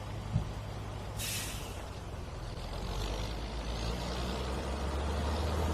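Heavy engine idling with a low, steady drone that grows a little louder toward the end. There is a short knock just after the start, and about a second in comes a brief sharp hiss of released air, like an air brake.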